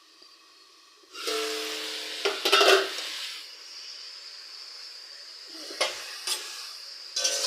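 Vegetables frying in hot oil in a pan. A loud sizzle starts suddenly about a second in and settles to a steady sizzle, with a few clatters of a utensil stirring against the pan.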